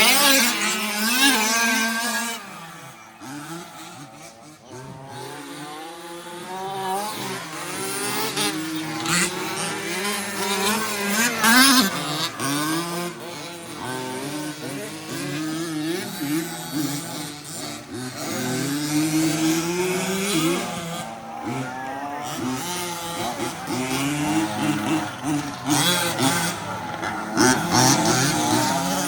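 Several radio-controlled 4WD race trucks running together, their motors whining up and down in pitch as they accelerate and slow through the course, with tyre noise on the track.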